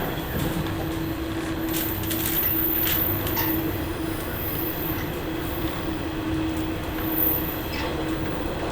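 Onboard running sound of a JR West 103 series electric train moving along at speed: a steady rumble with a constant hum at one pitch. A few sharp clicks come from the wheels over rail joints.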